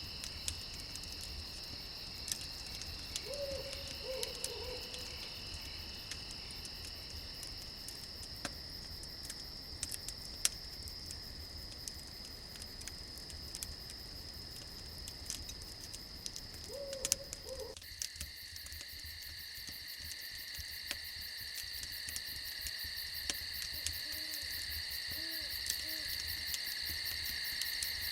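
Crickets chirring in a steady high chorus, which changes to a louder, faster-pulsing trill about two-thirds of the way through. An owl hoots a few short times over it, and sparse sharp crackles of a campfire pop now and then.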